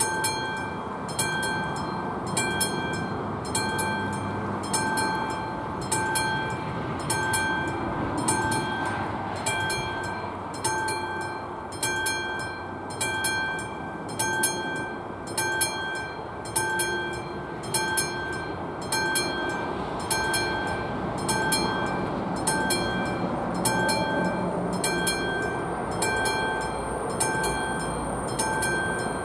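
Classic mechanical level-crossing bell ringing with steady, evenly spaced strokes, about three every two seconds, each stroke ringing on.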